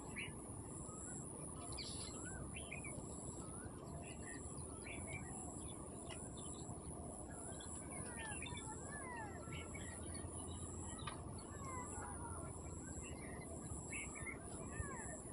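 Small birds chirping and giving short sliding calls again and again, over a steady background hiss.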